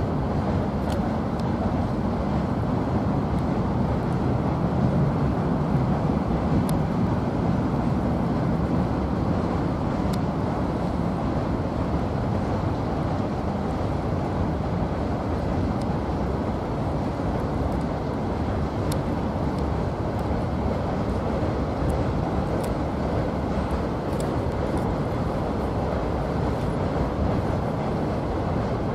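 Freight train wagons rolling over a steel truss railway bridge: a steady rumble of wheels on rail, a little fuller about five seconds in, with a few faint clicks.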